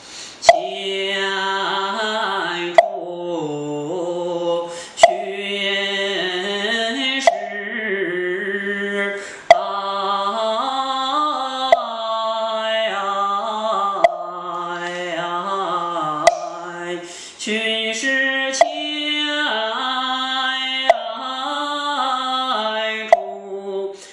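A male Taoist priest chanting a Quanzhen liturgical melody solo, holding long gliding vowels. A sharp percussion knock about every two seconds marks the beat.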